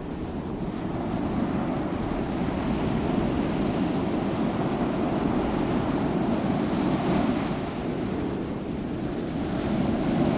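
Sea waves washing on the shore: a continuous rushing that swells and ebbs slowly, easing off late on and building again at the end.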